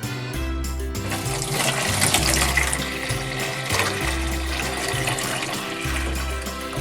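Water rushing and splashing in a toy doll spa, starting about a second in and easing off near the end, over upbeat background music.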